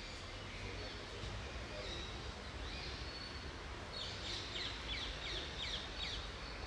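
Small birds chirping over a steady low rumble, with a quick run of descending chirps about four to six seconds in.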